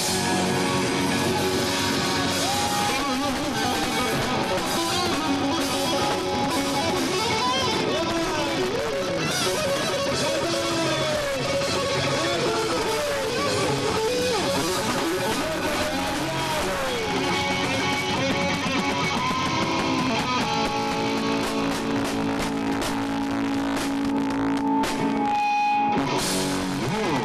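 Live rock band playing, led by electric guitar with bending notes over bass and drums.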